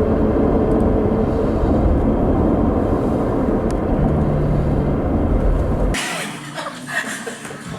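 Steady low road and engine rumble inside a moving car. About six seconds in it cuts off abruptly to a quieter, brighter sound.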